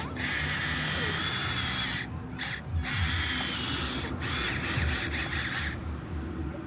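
Electric motor and plastic gearbox of a Huina 1573 RC dump truck whining steadily. It cuts off briefly about two seconds in and again about four seconds in, then stops shortly before the end.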